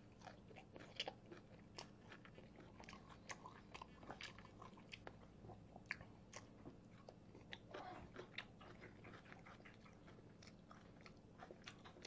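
Faint close-up chewing of a person eating shredded scallion salad and stir-fried kimchi: scattered soft clicks and mouth noises, irregular, over a quiet room.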